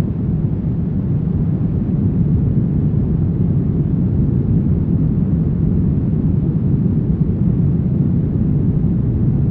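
Brown noise: a steady, deep rushing hiss with most of its energy in the low end and little treble, unchanging throughout.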